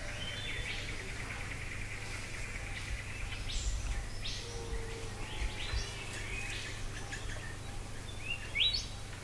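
Rainforest birds calling: several different short chirps and calls over a steady high-pitched trill, with the loudest, a short upward-sweeping call, near the end.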